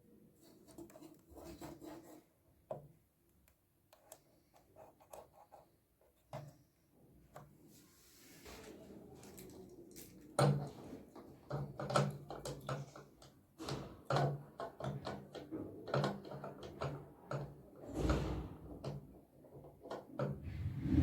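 Scattered clicks and clatter of hand tools on washing-machine parts. About halfway through, a run of louder, regular knocks begins, roughly one a second, each with a short low ring.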